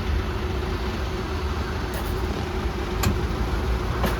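Ice cream van's engine idling, a steady low rumble with a faint hum, and two short clicks near the end.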